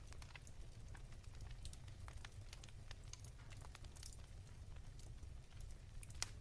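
Wood fire in a fireplace crackling softly: scattered irregular pops and snaps, one sharper pop about six seconds in, over a faint steady low hum.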